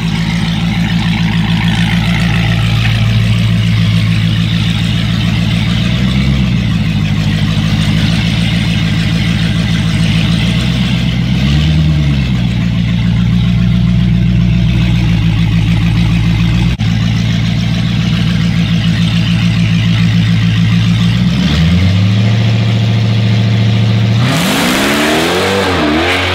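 Supercharged Dodge Challenger V8 idling hard at the drag-strip start line, with a few short blips of the throttle. About 24 seconds in it launches at full throttle, the engine note rising in pitch through several gear changes as it pulls away.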